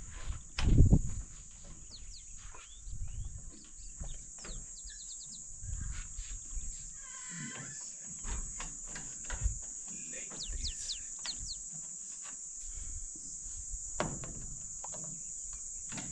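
A steady high insect drone with many short bird chirps over it, and a few dull knocks, the loudest about a second in.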